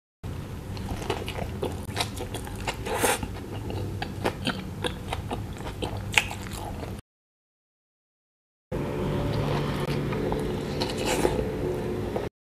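Close-miked chewing and biting of a soft burger bun and filling, full of short mouth clicks. The sound cuts to dead silence for nearly two seconds midway, then the chewing resumes.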